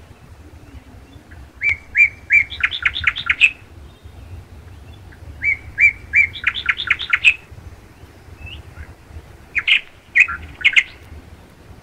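A songbird singing: two similar phrases, each a few repeated notes running into a quick series of notes, then a shorter burst of song near the end.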